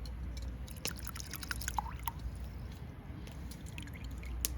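Liquid dripping and bubbling, with scattered small pops and clicks.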